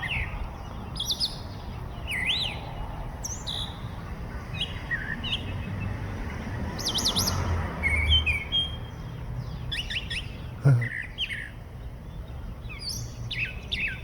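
Songbirds chirping and singing: a run of short whistled, slurred notes, some sweeping up and down in pitch, over a low rumble. A single thump about three-quarters of the way through is the loudest sound.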